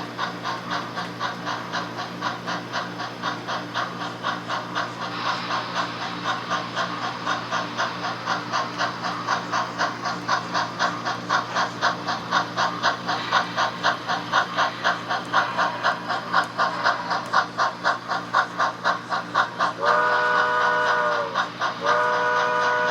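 HO scale model steam locomotive sound decoder playing rhythmic exhaust chuffs over a steady low hum, then sounding two whistle blasts near the end.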